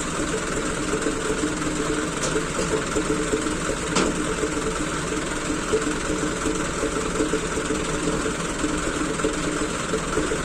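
An engine idling steadily, with one short click about four seconds in.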